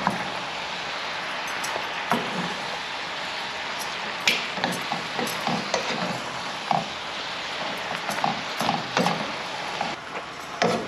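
Cabbage, sausage and bacon sizzling in a hot pan while two wooden spoons toss and stir it, with irregular scrapes and knocks of the spoons against the pan over a steady frying hiss.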